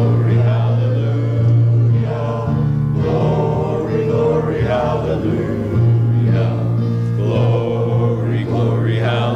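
Congregation singing a hymn together over an accompaniment that holds long bass notes, which change a few times.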